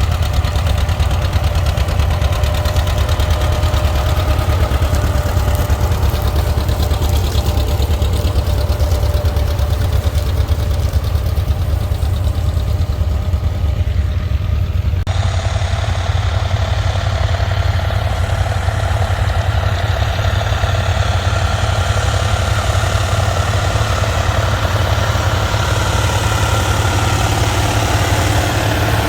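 Tractor engine running steadily, with a strong low rumble. The sound changes abruptly about halfway through, as at a cut to another engine.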